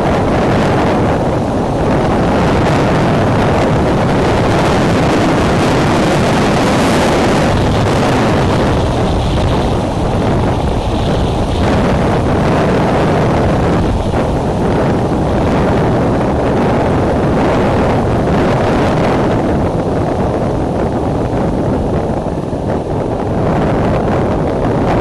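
Extreme wind buffeting the nest camera's microphone: a loud, steady low rumble that swells and eases with the gusts.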